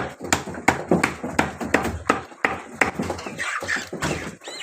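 Cleaver chopping chicken on a chopping block: repeated sharp strikes at about three a second.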